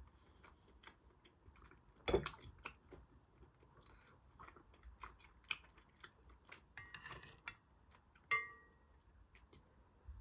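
Close-up eating sounds: quiet chewing and small mouth and utensil clicks, with a louder knock about two seconds in and a short ringing clink of tableware a little past eight seconds.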